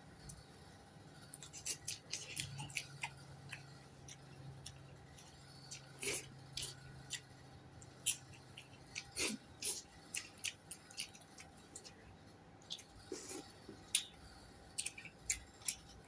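Close-up eating sounds: chewing with irregular wet mouth clicks and lip smacks.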